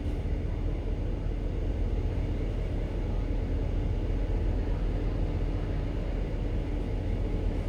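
Steady low drone of a ship's main engine and machinery, heard from on board as the vessel manoeuvres slowly alongside a berth.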